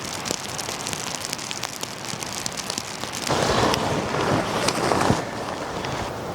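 Steady rain with many separate drops ticking. From about halfway through to near five seconds a louder rush of noise swells, then drops back.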